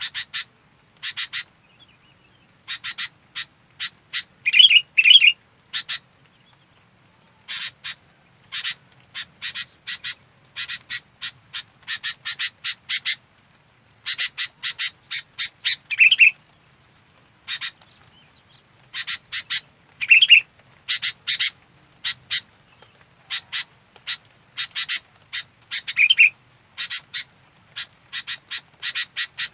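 Sooty-headed bulbul (kutilang) calling actively: clusters of short, rapid chattering notes repeated throughout, with a few louder, lower notes among them.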